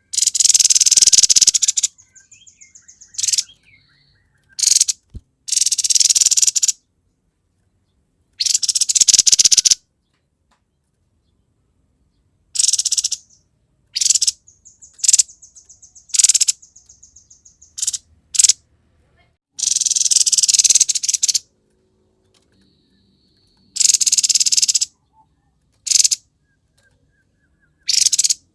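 Grey-headed babbler calling in repeated harsh, rasping bursts a second or two long, with short, fast, high trills in between.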